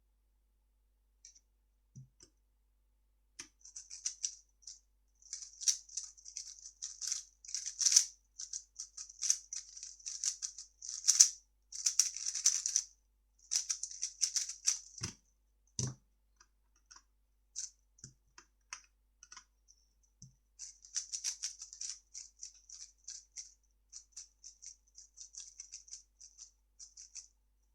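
3x3 speedcube being turned at speed, a rapid run of plastic clicking and rattling layers from about three seconds in to about fifteen, ending in two low thumps. After a few scattered clicks, a second run of fast turning comes near the end.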